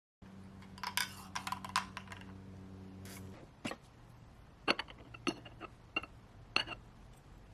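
Clatter and a few sharp ringing clinks of dishes being handled. A steady electrical hum runs under the first part and stops about three seconds in.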